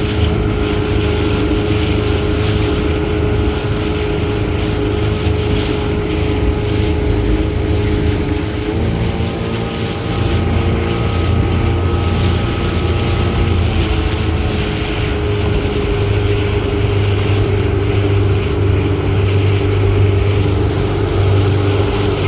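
Motorboat engine running steadily under way, with wind buffeting the microphone. The engine speed steps up about nine seconds in and drops back about five seconds later.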